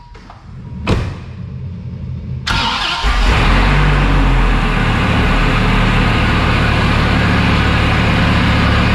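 A car door shuts with a thump about a second in; then the Dodge Viper GTS's V10 starts up about two and a half seconds in and settles into a steady, very loud idle.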